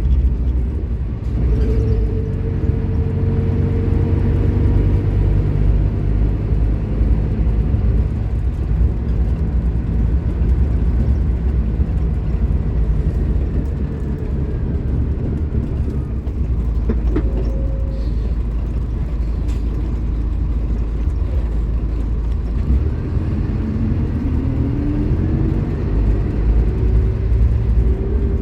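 Scania K310IB bus's five-cylinder diesel engine running under way, a steady low drone with a whine that rises early on and again near the end as the bus picks up speed.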